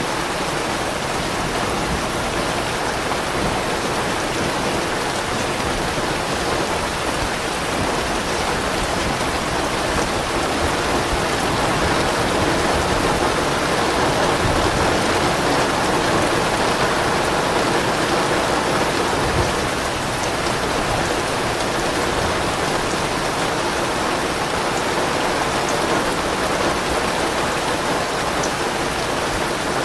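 Steady rain falling on surfaces: an even, continuous hiss that swells slightly in the middle and eases back down.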